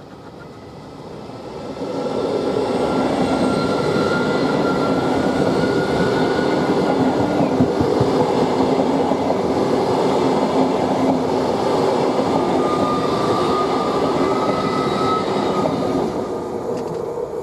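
Train running on the rails: a steady, loud rumble that builds about two seconds in and eases off near the end, with faint steady tones, including a high one, above it.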